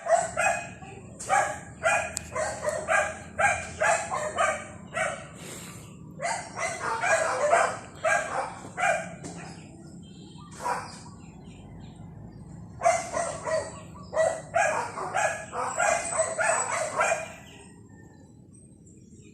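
A dog barking repeatedly in runs of sharp barks, about two a second, with short pauses between runs, over a faint steady low hum.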